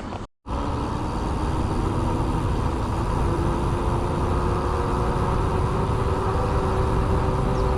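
Steady rolling noise of a mountain bike riding on tarmac, with wind rush on the microphone and a constant hum running through it.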